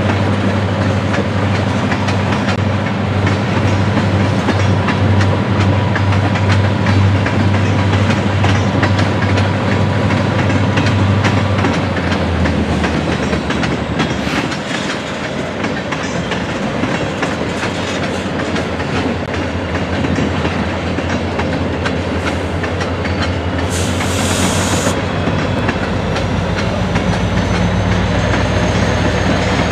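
Tank cars of a freight train rolling over a road crossing, their wheels clicking steadily over the rail joints, with a brief high hiss about two-thirds of the way through. Near the end the shoving locomotive, a CSX SD40-3 diesel, comes up and its low engine rumble joins in.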